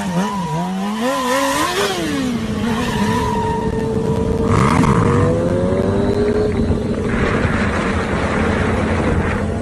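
Motorcycle engine revving, its pitch swinging up and down quickly for the first couple of seconds, then running at a steadier pitch that climbs slowly, with a brief hiss about halfway through.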